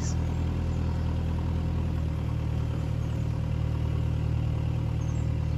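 A vehicle engine running steadily at low revs, an even low hum with no change in speed.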